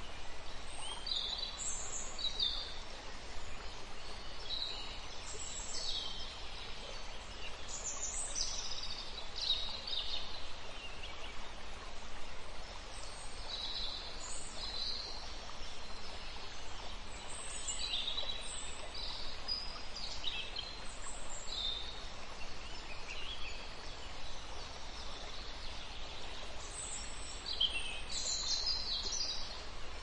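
Birds chirping: many short, high calls scattered throughout, over a steady background hiss.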